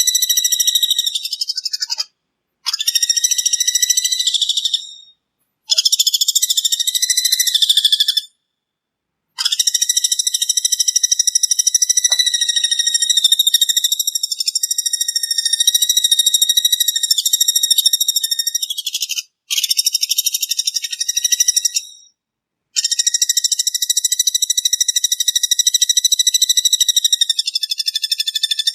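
A sogon songbird singing long, fast, buzzing insect-like trills ('brem') in phrases several seconds long, with short breaks between them.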